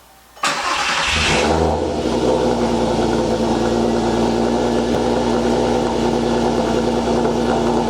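Volkswagen MKIV R32's 3.2-litre VR6 engine, breathing through an APR exhaust, starting from cold. It catches about half a second in, flares up briefly, then settles into a steady idle by about two seconds in.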